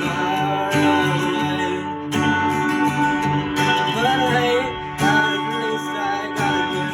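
Live band playing an improvised piece, with sustained notes over a steady repeating low rhythm and a wavering melody line about four seconds in.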